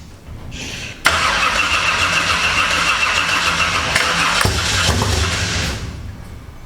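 The 18x race car's new engine being started: a sudden loud burst of engine sound about a second in that holds steady for about five seconds and then stops near the end.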